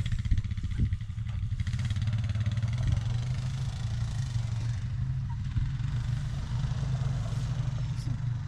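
John Deere Model H two-cylinder engine running steadily at idle, with a couple of louder knocks in the first second.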